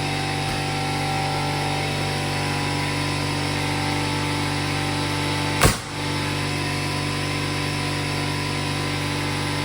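Oil-lubricated air compressor running steadily as it pumps up its tank to supply a nail gun, with one sharp bang a little past halfway.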